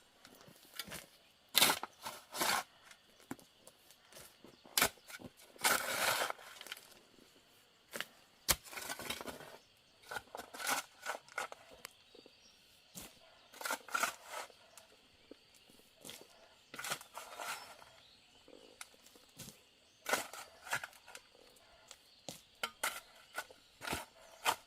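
Irregular knocks, clatters and rustling of things being handled, coming in scattered bursts with short pauses between.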